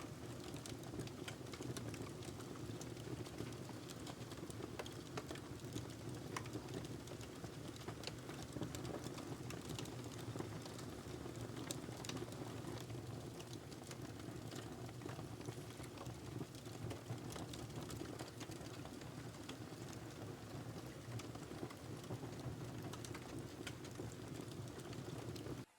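Wood fire burning in a fireplace: steady low rumble of the flames, with irregular sharp crackles and pops from the burning logs. The sound drops out abruptly at the very end.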